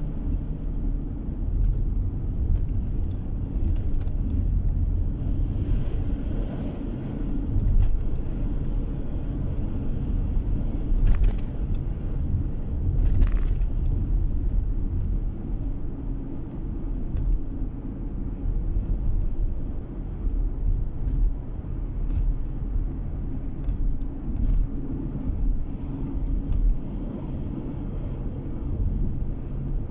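Road noise inside a moving car's cabin: a steady low rumble of engine and tyres, with a few light rattles and clicks, the clearest two near the middle.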